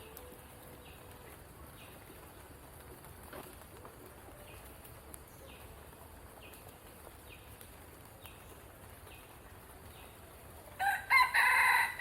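A rooster crowing once, loudly, near the end, over faint high chirps repeating about every 0.7 seconds.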